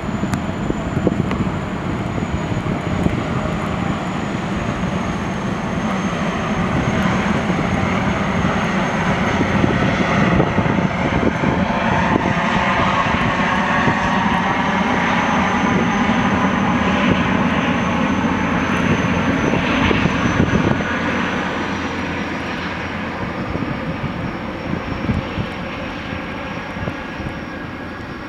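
Boeing Jetfoil's gas turbines whining over a loud rushing noise as the craft comes down off its foils onto the hull on arrival. The high whine slowly falls in pitch, and the whole sound eases off after about twenty seconds as it slows.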